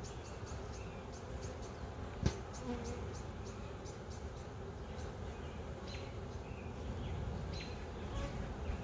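Honey bees buzzing around an open hive. A run of short, high chirps repeats about three to four times a second through the first half, and there is a single sharp click a little over two seconds in.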